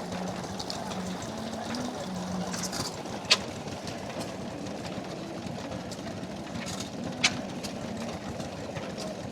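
Tangye stationary engine running steadily while driving a small centrifugal water pump, with a sharp crack twice, about four seconds apart.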